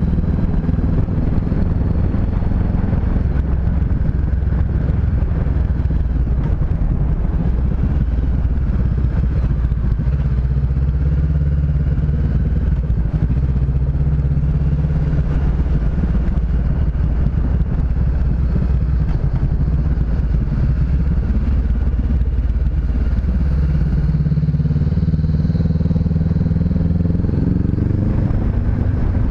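Honda CB500X parallel-twin motorcycle engine running steadily while riding, with the engine note shifting up and down in the last few seconds.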